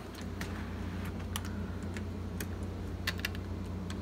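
GE AEL14AVL window air conditioner running, its compressor and fan giving a steady low hum. Irregular light clicks and taps sound over it.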